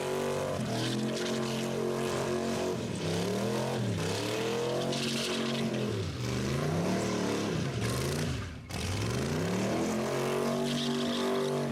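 Rat rod's engine revving hard, its pitch swinging up and down several times, dropping sharply about eight and a half seconds in before climbing again.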